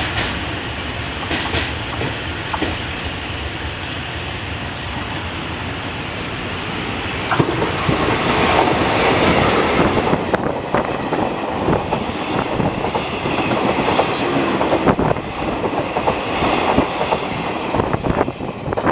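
Train rolling past, its wheels clattering over the rail joints in a steady rumble that grows louder and denser with clacks about seven seconds in.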